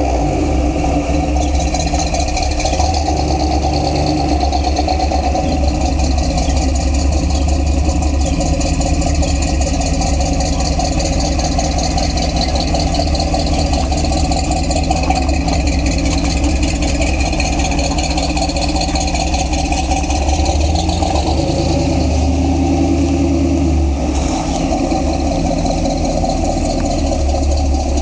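1942 Chevrolet truck's straight-six engine running steadily as the truck drives along. Its note shifts about three-quarters of the way through.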